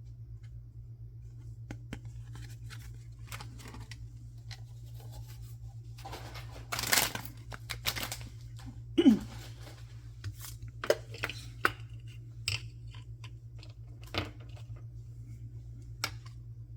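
Hands tearing open and handling blind-box packaging: short bursts of tearing and crinkling with scattered small clicks and taps, the longest tear about halfway through and a sharp tap with a brief falling squeak just after, over a steady low hum.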